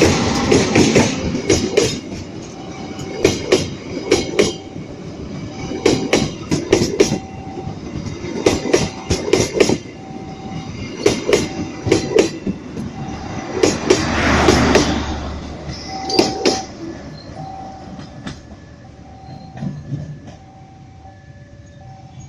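Passenger train carriages rolling past, their wheels clacking over rail joints in repeated groups of sharp clicks, with the sound fading over the last few seconds.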